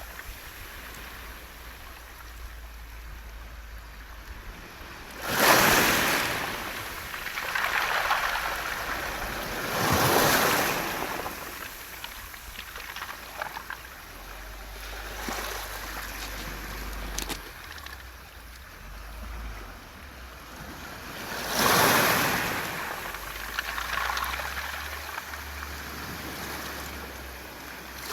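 Waves surging onto a beach of round mongdol pebbles, the stones rattling as the water rushes up and drains back. The biggest surges come about five, ten and twenty-two seconds in.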